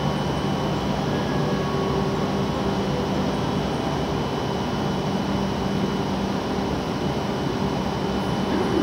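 W7 series Shinkansen train standing at the platform, giving a steady whirring hum with a few held low tones from its running equipment.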